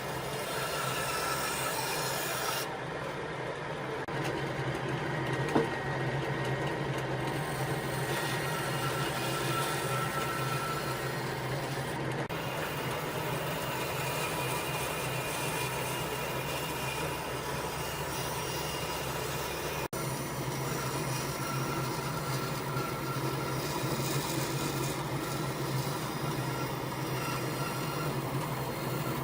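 Electric power tool running steadily against wood, with a constant low hum and rubbing or rasping noise, a single sharp click about five seconds in and a brief break near twenty seconds.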